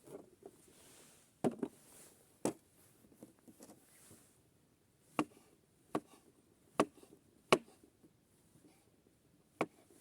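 Knife chopping food on a cutting board: about eight sharp, short strikes at uneven intervals, with pauses between them.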